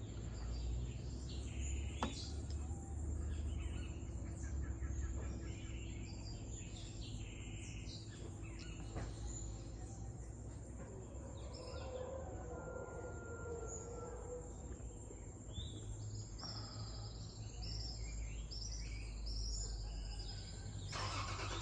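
Mixed tropical birds calling and chirping, many short varied calls overlapping, over a low steady background rumble. In the last moment an SUV's engine and tyre noise begins to rise.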